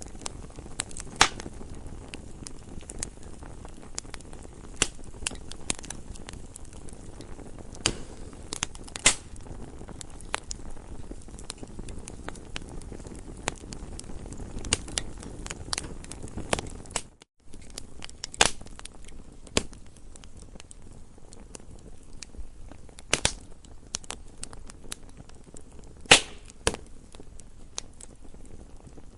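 Campfire crackling: irregular sharp pops and snaps of burning wood, some louder than others, over a steady low rumble of the flames. The sound cuts out for a moment about seventeen seconds in.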